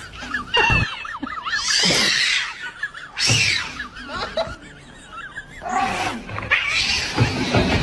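Animal calls: spells of short, squeaky, wavering cries.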